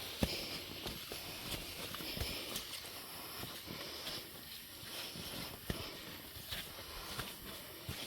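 Footsteps of hikers walking on a jungle trail: irregular steps and small knocks, over a steady high hiss.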